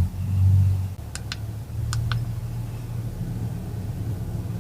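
Steady low rumble of a car engine idling, with two pairs of sharp clicks about one and two seconds in.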